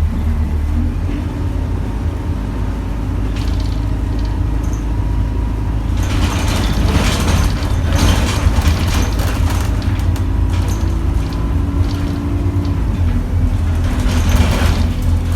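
Single-deck Alexander Dennis Enviro200 bus's diesel engine running with a steady low drone, heard from inside the saloon, with two stretches of louder rushing noise, one from about six to ten seconds in and another near the end.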